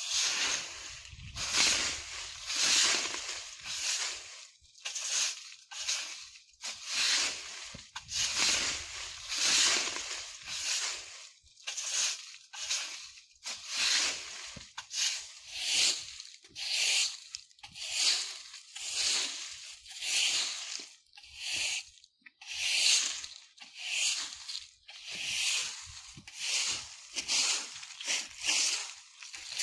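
Broom sweeping dry leaves over the ground in steady, even strokes, about one a second.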